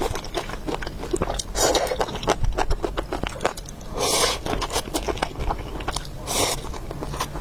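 Close-miked eating of noodle soup with beef: wet chewing with many quick mouth clicks, and three short noisy bursts spaced through it.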